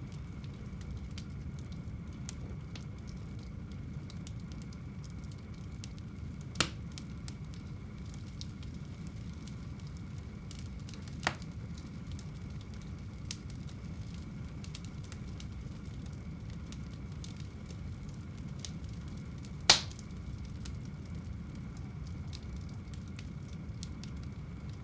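Wood fire burning in a home fireplace: a steady low rumble with faint crackling, broken by three sharp pops, the loudest about two-thirds of the way through.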